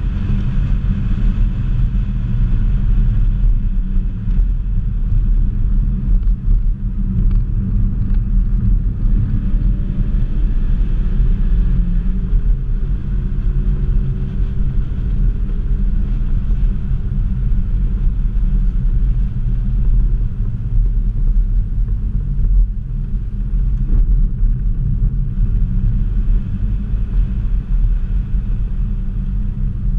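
Ford Focus ST's turbocharged 2.0-litre four-cylinder engine running under load at track speed, heard from inside the cabin as a steady, loud low rumble mixed with road noise. Faint rising tones come and go around the middle.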